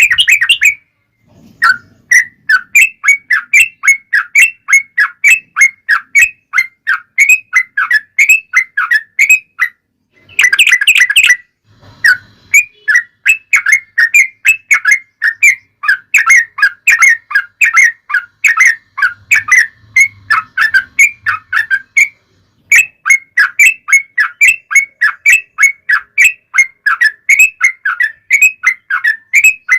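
Yellow-vented bulbul (trucukan) singing a long, fast run of short bubbly notes, about four a second. There is a burst of dense chattering at the start and again about ten seconds in, with brief pauses between phrases.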